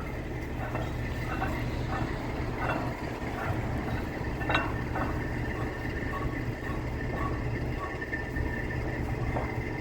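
An engine running steadily with a low hum, with scattered faint light metallic clinks.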